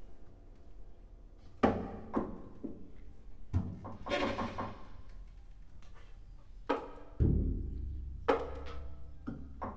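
Contemporary chamber ensemble of violin, flute, clarinet, piano, cello and percussion playing sparse, sudden accented attacks with wood and drum strikes between them. A deep low strike about seven seconds in rings on.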